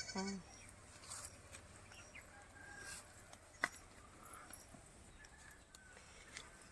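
Chickens clucking faintly, with a few scattered clicks.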